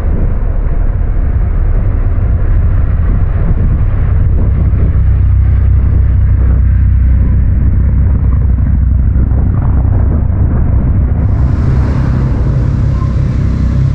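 Yamaha MT-09's three-cylinder engine running on the move through an Akrapovic titanium exhaust, a steady deep rumble. The sound turns brighter about eleven seconds in.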